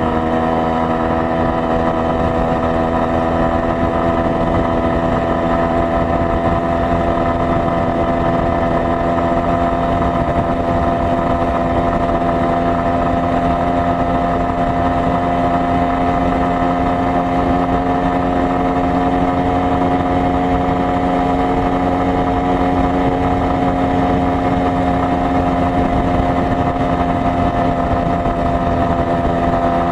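Minsk 125's two-stroke single-cylinder engine running steadily at an even engine speed, its pitch creeping up slightly over the first several seconds.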